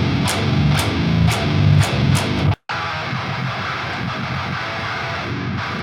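Playback of a heavy, distorted electric guitar riff of palm-muted chugs in a deathcore mix. For the first two and a half seconds, sharp drum hits land about twice a second. After a brief cut, the guitar plays on alone.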